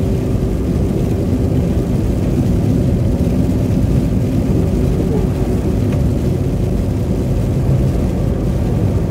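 Steady low rumble of a car's tyres and engine heard from inside the cabin while driving on a slushy winter road.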